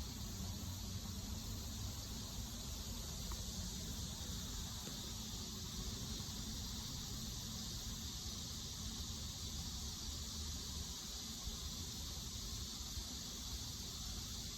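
Cicada buzzing, a steady high-pitched drone that holds without a break, over a low rumble.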